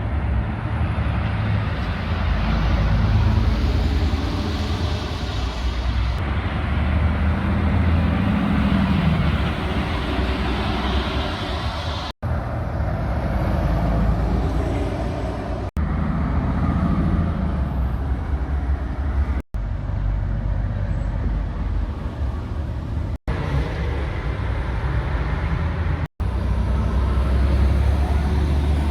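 Road traffic with lorry engines running past, a heavy low rumble under tyre and engine noise. The sound cuts out abruptly for an instant about five times.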